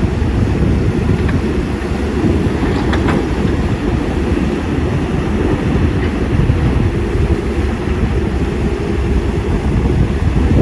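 CAT 320D hydraulic excavator's diesel engine running steadily, a loud low rumble, with a few faint clinks about three seconds in.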